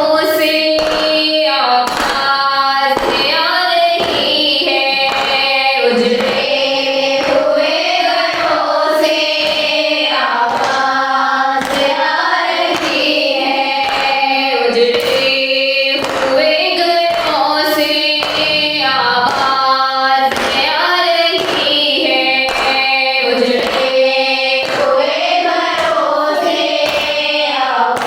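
Noha, an Urdu Shia lament, sung to a steady beat of hand strikes: matam, the rhythmic chest-beating that accompanies noha.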